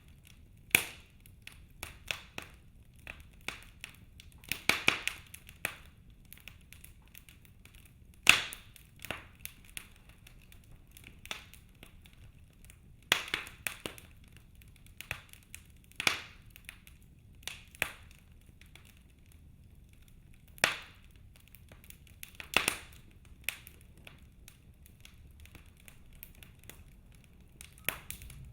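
Wood fire crackling in a fireplace: irregular sharp pops and snaps, a few of them loud, every second or two over a faint low background.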